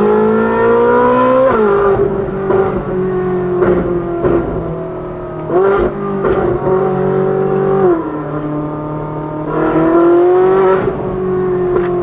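Ferrari 458's naturally aspirated V8 through a valved titanium exhaust with free-flow front pipes, valves open, heard from the open-top cabin while driving gently. The engine note climbs for about a second and a half, falls sharply, runs steady, steps down again near two-thirds of the way in, then climbs a little near the end.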